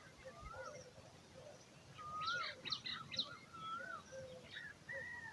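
Birds calling: short whistles that rise and fall, repeated several times, with a quick run of sharp chirps about two seconds in.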